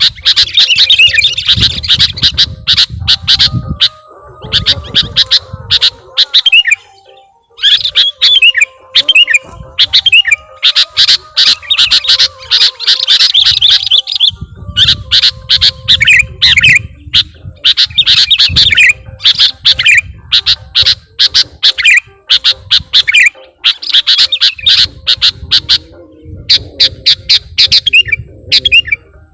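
Sooty-headed bulbul (kutilang) singing loudly and continuously: fast runs of sharp chirps and squawky notes in phrases of a few seconds with brief pauses, full of mimicked fill-in phrases.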